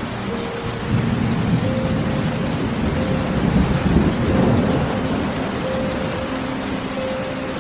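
Steady rain with a rolling thunder rumble that builds from about a second in, is loudest around four seconds in, then slowly fades. Soft sustained tones sit underneath.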